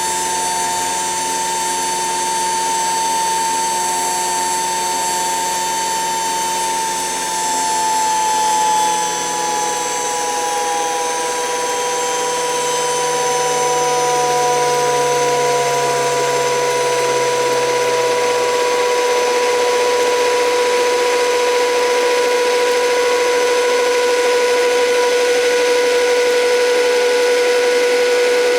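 Modified toy washing machine's HUSTOO 775 DC motor running under PWM speed control, driving the drum through a pulley, with a steady high whine. About a quarter of the way in, one tone slides slowly down in pitch over roughly ten seconds as the motor slows.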